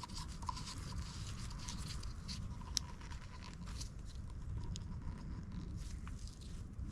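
Faint handling noises: light clicks and crackles of small plastic oil filter housing parts and rubber O-rings being fitted by hand, over a low steady background rumble.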